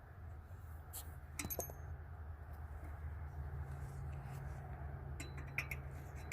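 Light metallic clinks of steel wrenches and flange nuts being handled: a few about a second in and a quicker cluster near the end, over a steady low hum.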